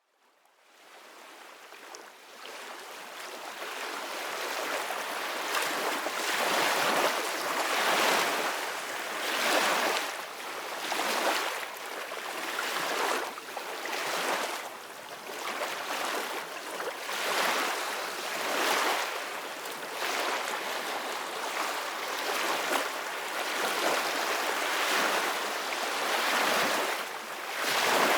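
Ocean waves breaking on a beach: a steady wash of surf that fades in over the first few seconds, then swells and ebbs with each wave every second or two.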